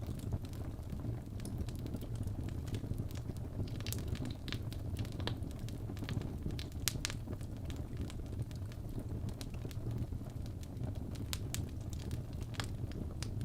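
Wood fire burning in a fireplace: a steady low rumble of flame with frequent sharp, irregular crackles and pops of the burning logs.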